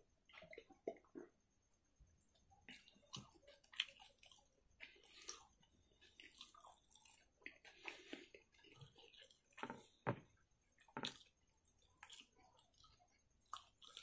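A person eating close to the microphone: quiet chewing with irregular wet mouth clicks and smacks.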